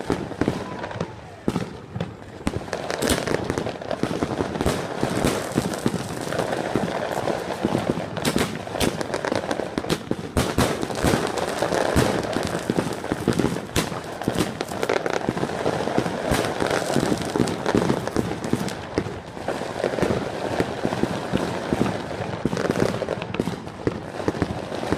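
Fireworks and firecrackers going off continuously: a dense, irregular run of sharp cracks and pops over steady crackling.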